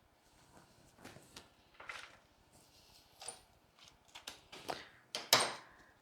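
Rustling and small crackles of rose stems and evergreen foliage being handled and pushed into a floral arrangement, in irregular bursts, the loudest about five seconds in.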